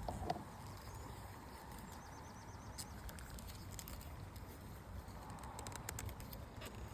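Outdoor ambience: a steady low rumble like wind, with a small bird giving a quick high trill of repeated chirps about two to three seconds in, and scattered light clicks, several close together near the end.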